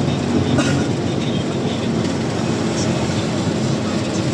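Truck's engine and road noise while driving: a steady low drone, with a short click about half a second in.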